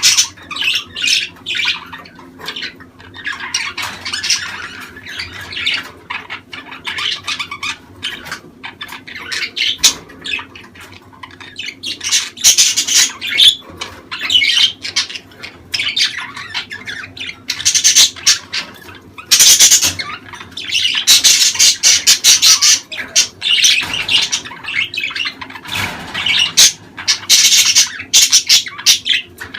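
A flock of budgerigars chattering nonstop, with frequent sharp squawks that grow busier and louder about halfway through. This is the busy flock chatter breeders play to stimulate budgies to breed.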